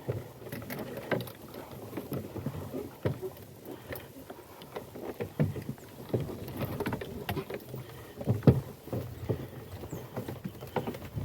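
Irregular wooden knocks and clatter from a goat cart and its load of firewood, with scattered sharp clicks over a low rumble.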